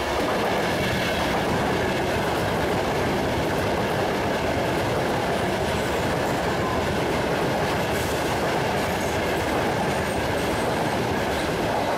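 A Pendolino tilting train passing at speed, close by: a steady, loud rush of wheels on rail with a fast clatter over the track.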